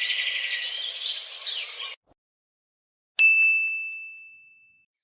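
A busy chorus of birds chirping that cuts off abruptly, then after about a second of silence a single bright ding, a high bell-like tone that rings out and fades away.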